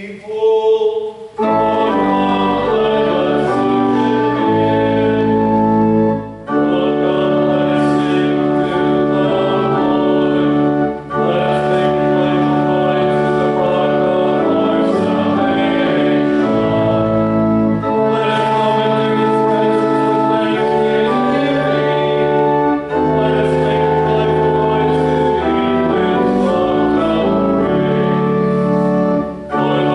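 Pipe organ and congregation singing a hymn or canticle of the liturgy, in held chords with short breaks between phrases.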